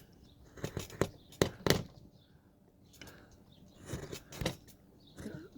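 Hand chisel cutting into a wooden carving under heavy pressure, with the work table knocking: a string of sharp clicks and knocks, bunched in the first two seconds and again around four seconds in.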